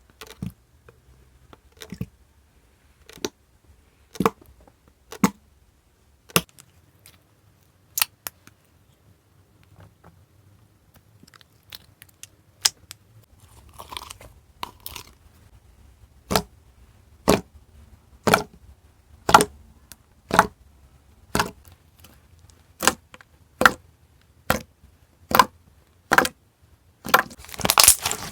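Thick, puffy slime being pressed and squeezed by hand, giving sharp pops and snaps as air pockets burst, about one a second and a little quicker near the end.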